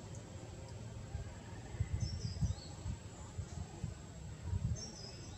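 A small bird singing a short phrase of high, stepped-down notes, twice about three seconds apart, over steady outdoor background noise. Low rumbling bumps come and go under it and are louder than the song.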